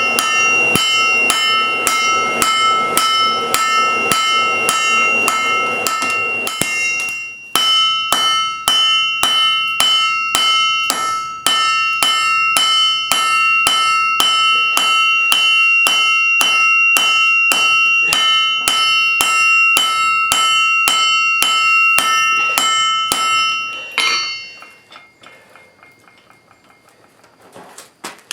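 Forging hammer striking steel on an anvil in a steady rhythm of about three blows a second, each blow leaving the anvil ringing. The hammering breaks off briefly about seven seconds in and stops about 24 seconds in, leaving only faint metallic clinks.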